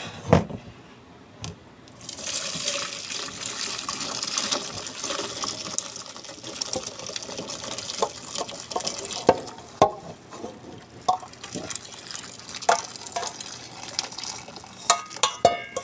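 Cooked chicken asado broth being poured through a strainer: a couple of knocks, then a steady pour starting about two seconds in that thins out, with clinks and taps of the pot and strainer through the second half.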